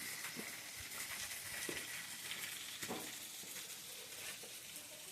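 Faint, steady hiss of running water, fading slightly, with a few soft knocks.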